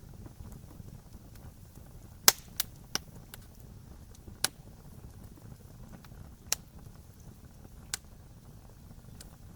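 Wood fire crackling: a handful of sharp pops from the burning wood, the loudest about two seconds in, over a low steady rumble of the flames.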